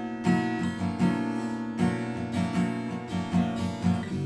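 Acoustic guitar strumming chords in a steady rhythm, an instrumental passage of a song between sung lines.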